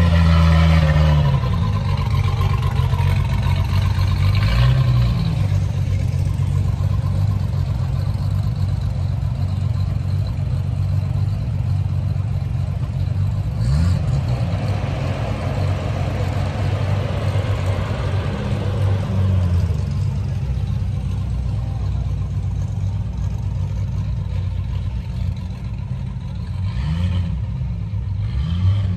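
Car engine idling with a steady low note, blipped a few times with short revs.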